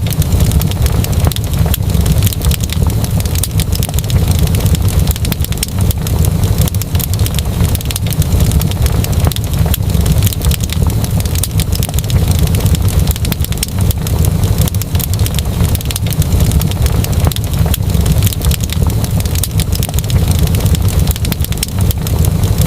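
Wood fire crackling steadily, dense small pops and snaps over a deep low rumble.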